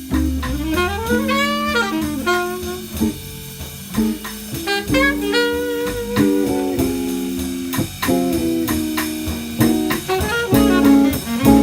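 Jazz quartet playing an instrumental passage: a lead melody that slides upward early on and then moves in short phrases over walking bass, drums and chords.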